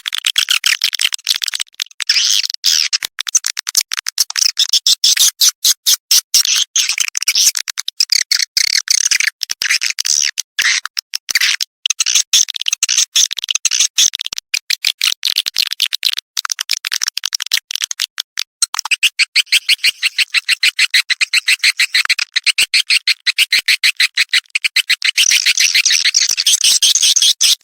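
Swiftlets giving courtship calls: a dense, fast chatter of high-pitched chirps and twitters that barely pauses. It is a lure call, the sound played to draw swiftlets in to roost and nest.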